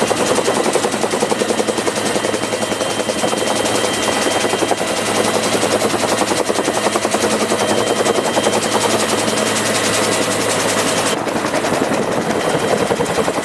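Bell UH-1 Huey helicopter's turboshaft engine and rotor running, the blades beating in a fast, steady chop.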